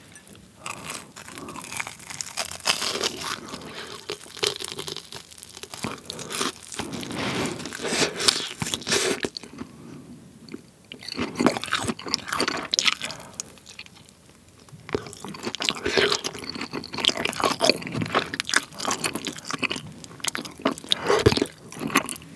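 Close-miked crunching and chewing of a breaded cheese pork cutlet, its crisp fried crust crackling between the teeth, in irregular runs with a couple of brief pauses.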